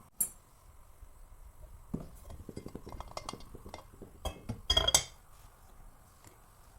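Kitchen utensils clinking against dishes: a sharp click, then a quick run of light taps, and a few louder ringing clinks near the end.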